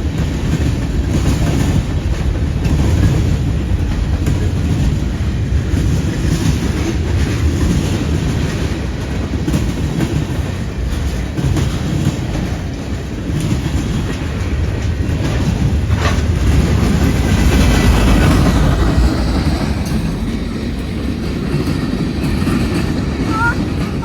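Norfolk Southern freight train rolling past: a steady low rumble, with steel wheels clicking over the rail joints and one sharper clank about two-thirds of the way through.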